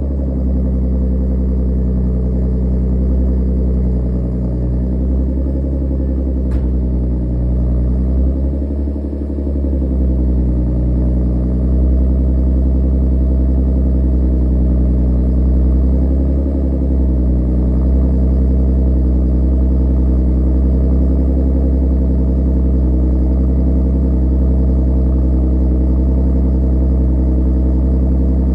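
Audi A7 engine idling cold, heard through an aftermarket exhaust with its variable exhaust valves open. It runs steadily, with the idle speed wavering briefly a few times.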